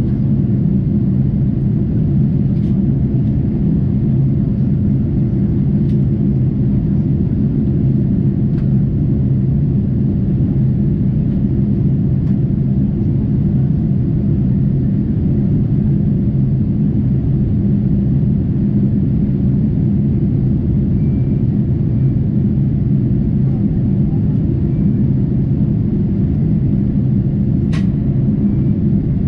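Steady low rumble of a Boeing 747-8's engines and rushing air, heard inside the passenger cabin from a window seat. A faint click sounds near the end.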